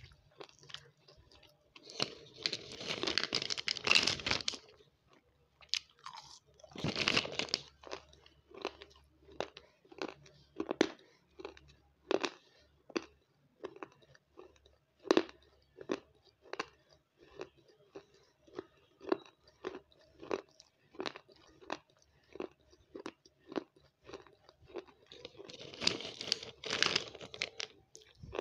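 Close-up chewing of a crunchy, crumbly snack: short crunches about twice a second. Longer scraping rustles come in a few places, the last near the end as a spoon scoops more pieces from the bowl.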